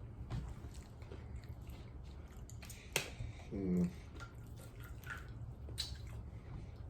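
Close, wet eating sounds: chewing and lip smacks with small scattered clicks. There is a sharp click about three seconds in, followed at once by a brief hum-like voiced sound.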